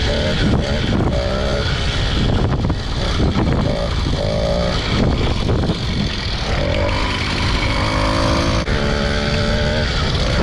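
Small gas motorbike engine running under way, its pitch rising and falling repeatedly as the throttle is opened and eased, over a rough rumble.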